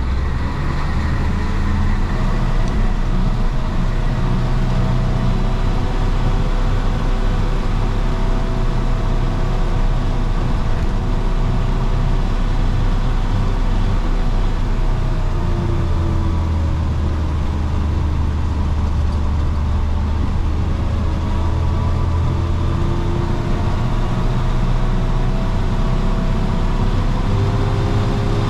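1966 Isuzu BXD30 bonnet bus's DA640 six-cylinder diesel engine running with a steady low rumble, its pitch drifting slightly up and down.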